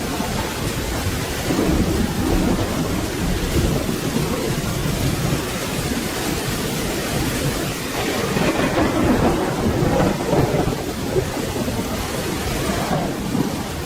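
Steady rain falling, with low thunder rumbling under it that swells about two seconds in and again from about eight to eleven seconds.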